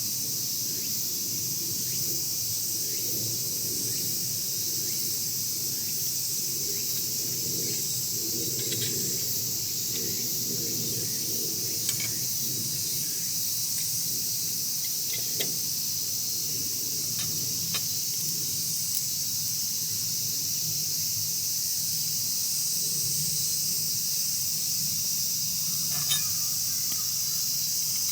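Wood fire burning, with a few sharp crackles, over a steady high-pitched chorus of crickets and other insects.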